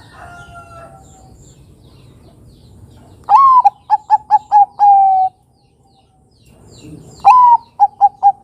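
Bangkok-strain zebra dove (perkutut) cooing: two phrases, each a rising-and-falling first note, about four quick short notes, then a long held lower note. The second phrase starts about 7 seconds in.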